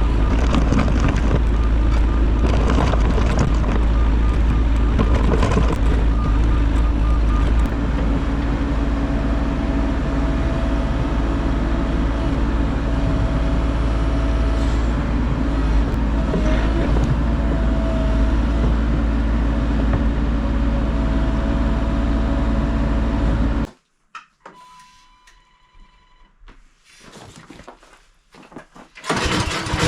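A heavy machine's engine running steadily under work, with a faint whine coming and going. It cuts off suddenly about six seconds before the end, leaving it much quieter, and loud engine noise returns just before the end.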